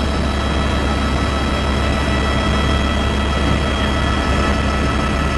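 Helicopter in flight, heard from inside the cabin: a steady turbine whine over the low, even drone of the engine and rotor.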